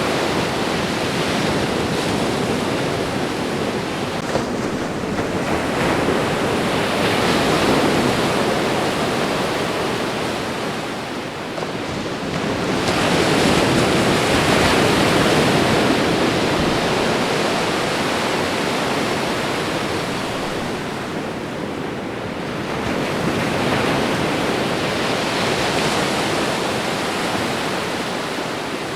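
Ocean waves washing onto a shore: a continuous rushing surf that swells and eases in slow surges, about three times.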